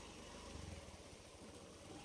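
Honda SP125 motorcycle's single-cylinder engine running faintly at low revs with an even low pulsing, a little louder about half a second in, as the bike crawls over rough off-road ground.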